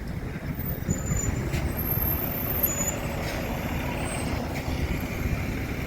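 Heavy road vehicle's engine running steadily in queued traffic, a low rumble, with a few brief faint high squeaks in the first three seconds.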